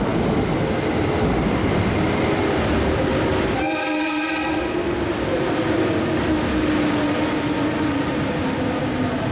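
JR 211 series electric train arriving and running along the platform, its wheels and motors giving a steady rumble with a low hum. A short train horn sounds for about a second, about four seconds in.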